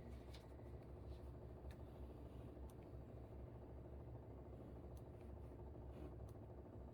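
Air conditioner running with a steady low hum and a few faint held tones, broken by a handful of faint short clicks.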